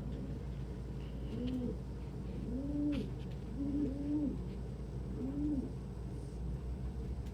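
Domestic pigeon cooing: a run of about five low coos, each rising and then falling in pitch, over a few seconds.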